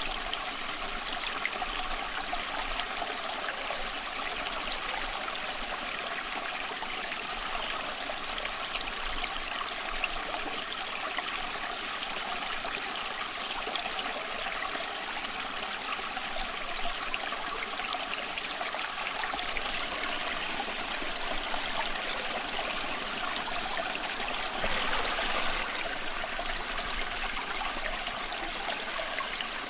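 A small stream running and trickling steadily over rocks, with a brief louder surge of water about 25 seconds in.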